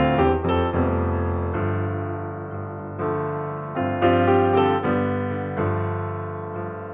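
Background piano music: soft piano notes struck and left to ring, with new phrases starting about a second and a half in and again about four seconds in.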